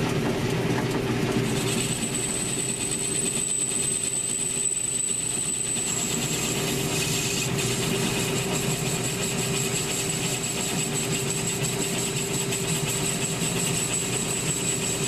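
1942 South Bend lathe running under power with a steady drive hum while the cutting tool takes a turning cut. A thin high whine from the cut comes in about a second and a half in, dips slightly a few seconds later and holds.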